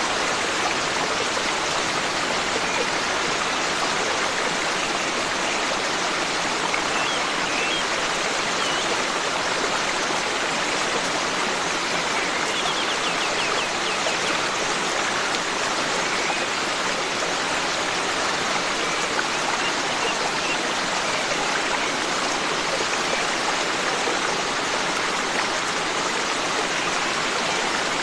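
Forest stream running steadily, with faint bird chirps now and then, a short trill of them about halfway through.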